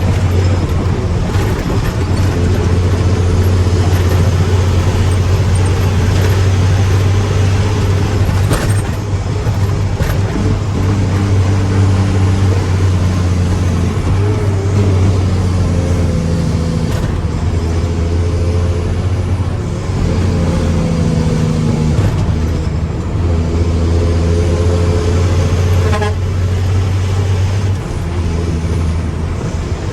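Mack truck's diesel engine running steadily, with its note shifting a few times.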